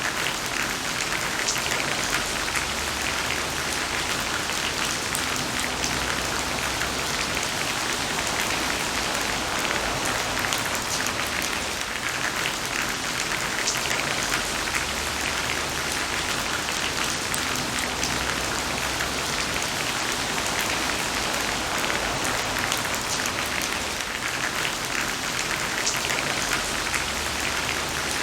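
Heavy rain falling steadily: a dense, even hiss of rainfall with countless individual drops pattering on a surface.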